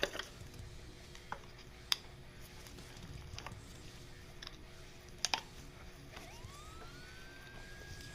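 Scattered sharp metal clicks and taps from a screwdriver prying at Oetiker hose clamps on a vacuum check valve, about half a dozen spread over several seconds with a quick double click about five seconds in. From about six seconds in, a faint thin tone sweeps upward and then holds, still climbing slowly.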